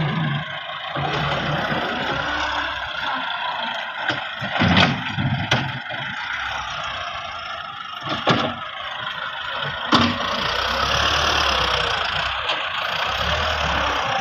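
Massey Ferguson 375 tractor's diesel engine running steadily, with a few sharp knocks about five, eight and ten seconds in.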